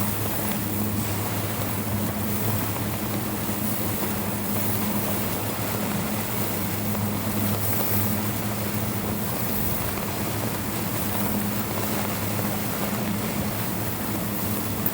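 Motorboat engine running steadily with a low hum, over a wash of water and wind noise.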